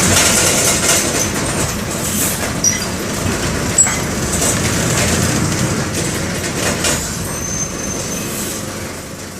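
Mercedes-Benz OF-1722M bus heard from inside the cabin, its OM-924 LA four-cylinder diesel running with road noise and body rattles. There are a couple of sharp clicks and a few brief high squeaks, and the sound fades out near the end.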